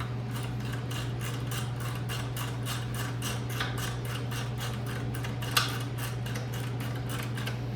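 Hand ratchet clicking in a steady rhythm, about four clicks a second, as small bolts are run down snug; one louder metallic clack about two-thirds of the way through.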